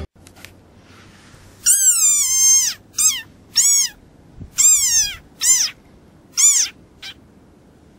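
Desert rain frog giving about six shrill, high-pitched squeaks, each rising and falling in pitch. They start about two seconds in, and the first is the longest.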